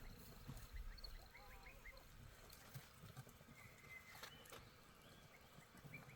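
Near silence: faint outdoor ambience with a few soft, short high chirps and light knocks.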